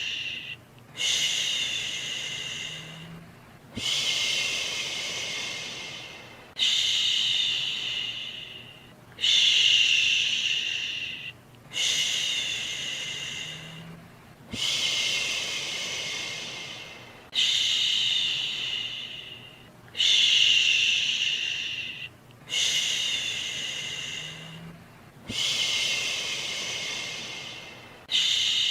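A soothing 'shhhh' shushing sound for settling a baby, repeated steadily about every two to three seconds. Each shush starts sharply and fades away before the next one.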